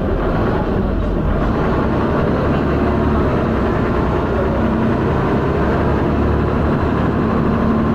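Diesel engine of a Dennis Arrow double-decker bus, heard from on board while the bus drives, running steadily with heavy thrash and a deep rumble. The engine is one the owner describes as knocking loudly.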